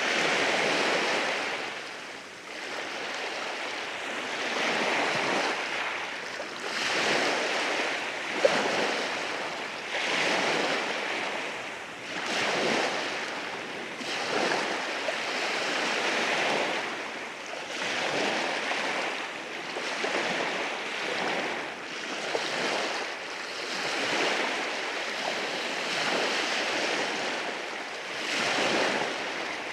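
Sea waves washing in over a rocky shore, the surf swelling and falling back every two to three seconds, with a single sharp click about eight seconds in.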